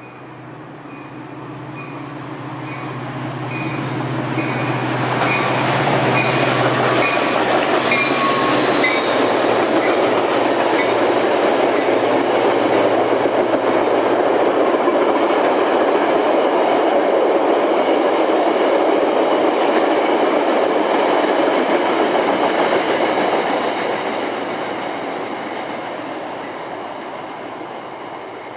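Diesel-hauled Metra commuter train passing through a station without stopping. A low engine hum and a run of repeated high ringing tones come in first as it approaches. Then the loud, steady rush of wheels on rail as the coaches go by, fading away over the last few seconds.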